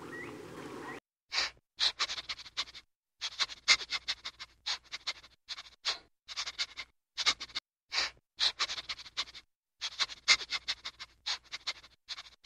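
A rabbit sniffing: clusters of quick, crisp little sniffs and clicks, stopping and starting every second or so. A short stretch of steady background hiss is heard first and cuts off abruptly.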